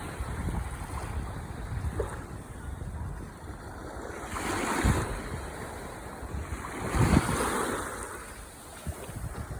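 Ocean waves breaking on the shore: a steady wash of surf with two louder surges, one about halfway through and one about three-quarters of the way through.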